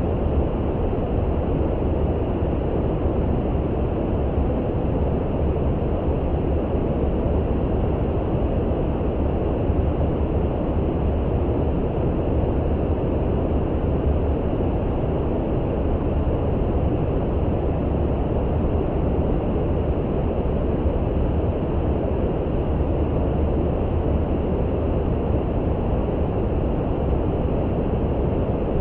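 Steady brown noise: an unbroken, even low hiss, heaviest in the bass and fading in the highs, with no changes or distinct events.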